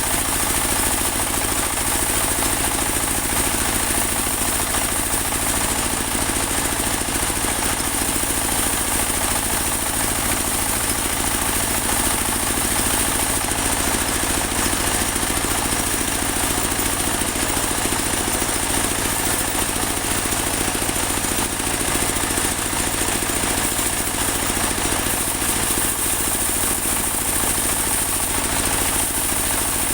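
Portable bandsaw sawmill running steadily: its engine drones without a break, with a constant high-pitched whine above it.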